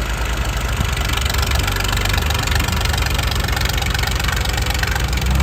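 Tractor diesel engines running hard under load in a tractor tug-of-war, a steady low rumble that grows slightly louder.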